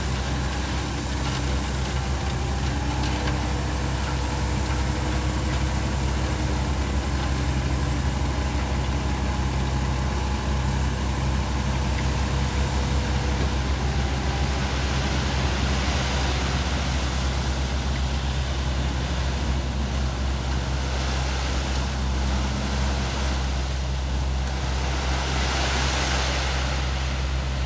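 Heavy diesel engines of construction machinery running steadily, with a noisy rushing sound swelling up about halfway through and again near the end.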